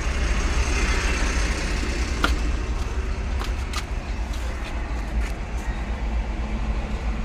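Motor grader's diesel engine running steadily with a deep rumble, with a few sharp clicks or knocks over it.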